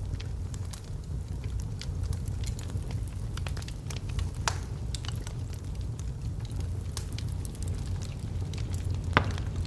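Log fire burning in a fireplace: a steady low rumble of flames with frequent small crackles, and two louder pops, one about four and a half seconds in and one near the end.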